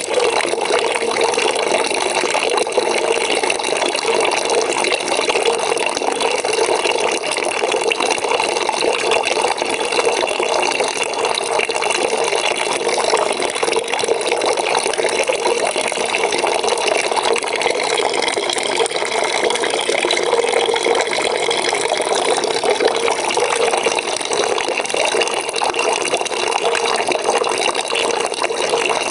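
Water running steadily into a bucket, an unbroken splashing rush.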